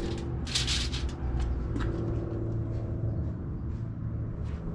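Aluminium foil crinkling briefly about half a second in as a rack of ribs is laid on it, followed by scattered small ticks, over a steady low background rumble with a faint hum.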